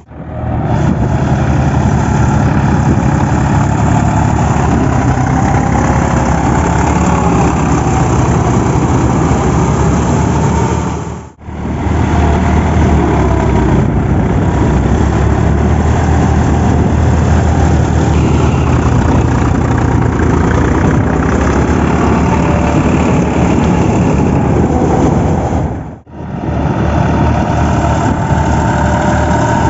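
Tractor diesel engine running steadily under load while puddling with a rotavator. The sound drops out briefly twice, at about 11 and 26 seconds in.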